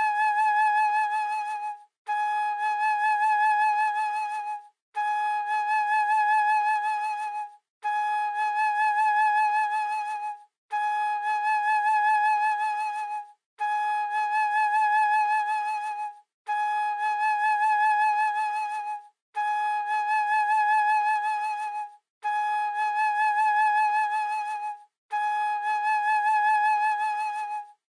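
A flute-like tone holds one high note with a slight waver for about two and a half seconds. It repeats ten times in identical fashion, with short gaps between.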